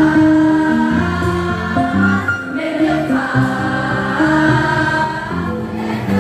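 A choir singing, moving through a melody in held notes.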